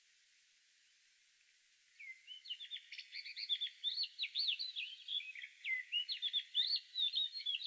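A songbird singing a rapid, varied song of short high chirps and trills, starting about two seconds in and continuing without a break.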